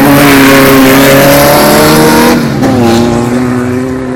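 Volkswagen race car engine running at high revs as the car passes close by, loud at first; about two and a half seconds in its pitch drops and it falls away to a lower, steadier note.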